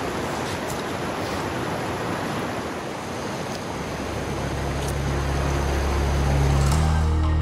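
A small river rushing, heard as a steady, fairly loud hiss of water. About four seconds in, background music with steady low notes fades in beneath it and grows louder near the end.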